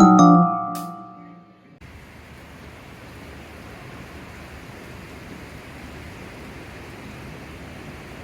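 Tinkling mallet-percussion background music rings out and fades, then a steady, even hiss of falling rain starts abruptly about two seconds in.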